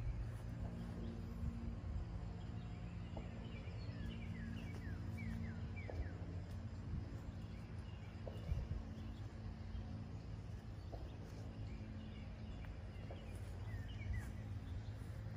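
Outdoor ambience: a steady low hum underneath, with small birds chirping short runs of quick falling notes about four seconds in and again near the end.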